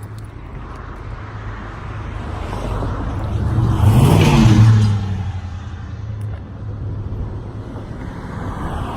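A car passes close by. Its engine and tyre noise swells to a peak about four seconds in, then falls away quickly. A steady low engine hum runs underneath.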